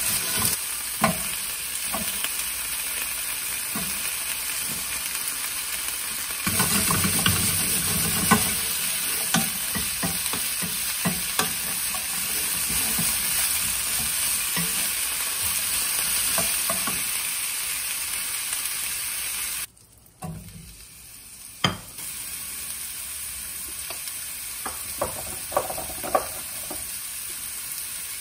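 Beef and cabbage sizzling as they are stir-fried in a nonstick pan, with a wooden spatula scraping and knocking against the pan many times. About two-thirds of the way through, the sound briefly drops away. It comes back as a quieter sizzle of mushrooms frying in butter, with a few more clicks.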